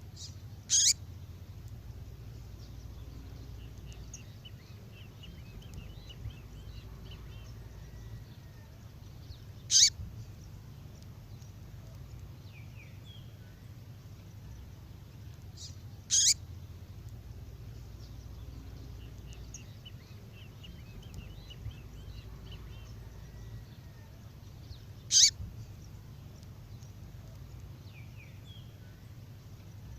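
Recorded female songbird call played on a loop: four short, sharp, high calls several seconds apart, with faint soft twittering between them.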